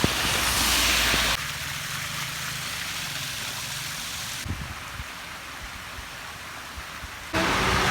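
Heavy rain falling, a steady hiss of water. The sound changes abruptly about a second and a half in and again near the end.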